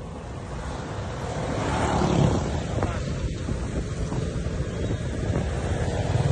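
Wind buffeting the microphone over the low rumble of a moving vehicle, swelling about two seconds in.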